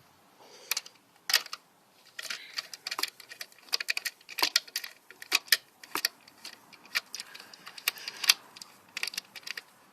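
Irregular light metallic clicks and clinks of hand tools and engine parts being handled, in uneven clusters of quick taps.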